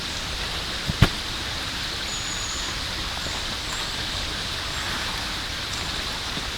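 Steady falling rain, with a single sharp tap about a second in.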